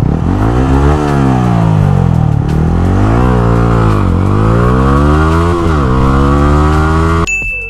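Yamaha R15 V3's 155 cc single-cylinder engine, running through a replica aftermarket exhaust, accelerating hard: its pitch climbs and falls several times as it is worked through the gears. It cuts off abruptly about seven seconds in.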